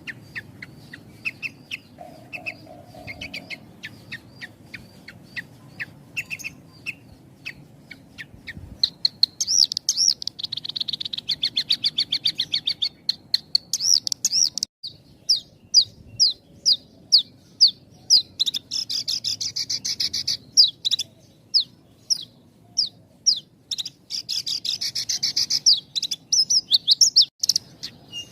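Horsfield's bush lark (branjangan) singing: sparse short chirps at first, then from about nine seconds in a fast, busy song of rapid trills and quick runs of clear notes with only short gaps between phrases.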